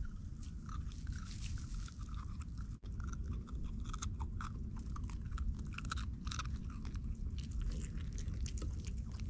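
A dog crunching and chewing small dry cheese-ball treats, with irregular crisp crackles, over a steady low rumble.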